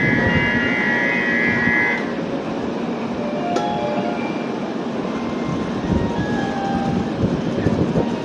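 Shinkansen bullet train moving along the station platform: a steady rail rumble, with a high steady tone that stops about two seconds in.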